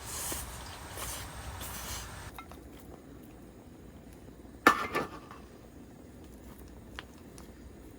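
A steady hiss that cuts off abruptly about two seconds in, then a sharp clink of dishes or cooking utensils striking, ringing briefly, and a lighter click about two seconds later.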